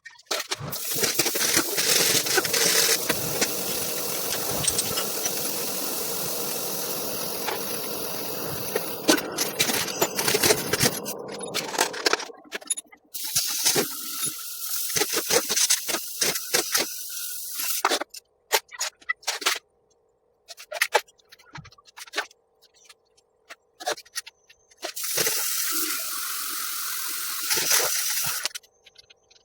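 A spray hissing in three long bursts, the first about eleven seconds long, with scattered clicks and knocks in the gaps between them.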